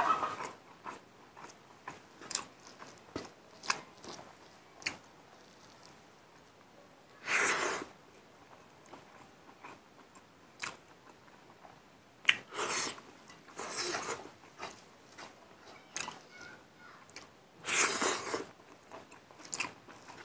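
Close-up chewing and mouth sounds of a person eating rice and cooked mustard greens by hand: wet smacking with many scattered sharp clicks. Three longer, louder bursts of noise come about a third of the way in, past the middle, and near the end.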